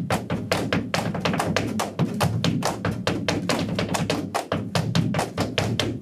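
Flamenco zapateado: a dancer's heels and toes striking the floor in a fast, even run of sharp taps, about eight a second.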